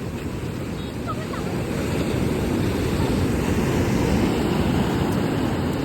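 Sea surf with wind buffeting the microphone: a low, steady rush that swells about two seconds in and eases near the end.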